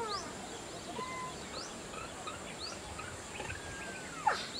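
Birds calling outdoors: short high chirps that rise in pitch, repeated about every half second to second, with a few brief whistled notes. Near the end comes a louder call that slides down in pitch.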